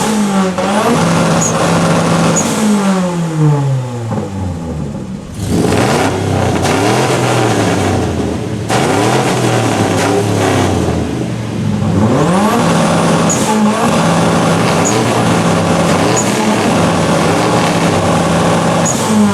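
A car engine revved hard through a loud exhaust and held at one steady pitch on a two-step launch-control rev limiter, twice for several seconds. Between the holds the revs climb and fall away.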